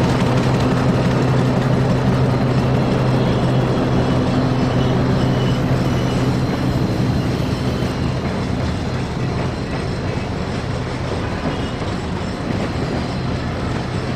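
Diesel locomotive engine running with a steady drone that eases off a little past halfway, over the rumble of freight wagons rolling on the track.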